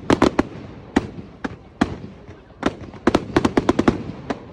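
Fireworks going off: a string of sharp bangs and cracks at irregular intervals. A quick flurry comes just after the start and a denser flurry about three seconds in.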